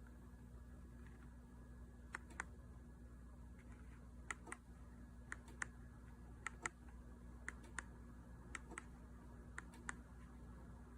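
Ceiling fan remote buttons pressed repeatedly, each press a quick pair of light plastic clicks, about eight presses in all, over a faint steady hum.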